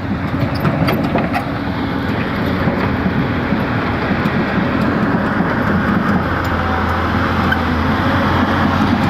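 Diesel engine of a timber-loaded dump truck running steadily under load, with a low drone that grows stronger about six seconds in.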